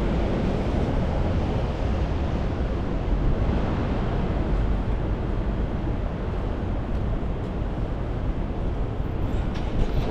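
Wind buffeting the microphone with a steady low rumble, over a wash of rain and street traffic.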